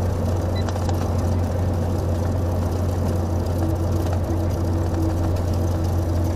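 Cessna 182's engine and propeller droning steadily as heard inside the cabin in cruise, a constant low hum. A faint higher steady tone joins about halfway through.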